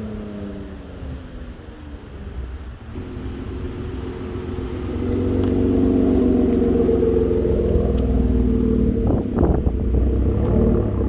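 Infiniti Q50 Red Sport 400's twin-turbo 3.0 V6, running upgraded Pure Turbos through a Motordyne Shockwave cat-back and catless downpipes. The revs fall off at first; about five seconds in the exhaust note builds and holds at a near-steady pitch. A brief crackle comes near the end.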